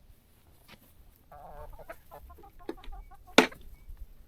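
Chickens clucking in short calls, with one sharp knock near the end.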